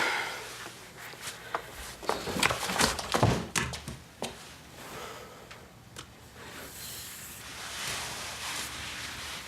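Knocks and thuds of movement in a small room, clustered in the first few seconds, followed by a soft rustling hiss near the end.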